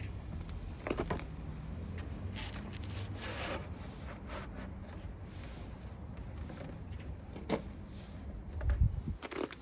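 Scattered clicks, knocks and a short scrape from hands working on a truck's door card panel and its screws, over a steady low hum. A heavier thump comes near the end.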